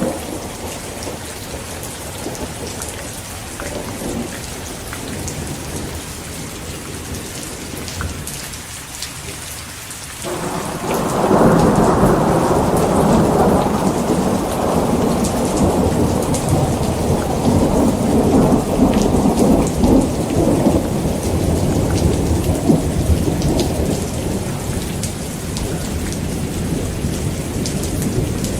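Heavy rain falling steadily. About a third of the way in, a loud roll of thunder breaks in suddenly, then rumbles on and slowly eases.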